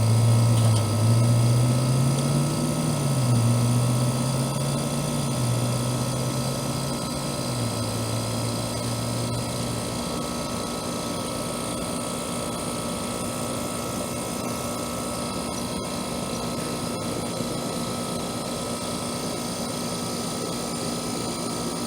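Trane central air conditioner's outdoor condensing unit running steadily, compressor and condenser fan both going: the compressor has been restarted with a hard-start kit (start relay and booster capacitor). Over the first ten seconds a low droning tone wavers up and down in pitch, then stops.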